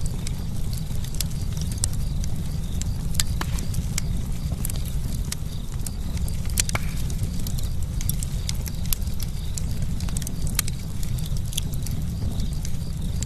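Campfire burning, with frequent irregular sharp crackles and pops from the burning wood, a few louder snaps among them, over a low steady rumble.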